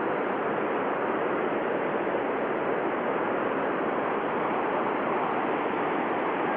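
Mountain stream water rushing with a steady, even sound.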